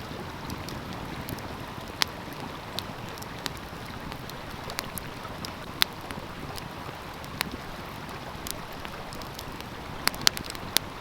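Wood fire crackling, with sharp irregular pops and a quick flurry of them near the end, over the steady rush of a flowing stream.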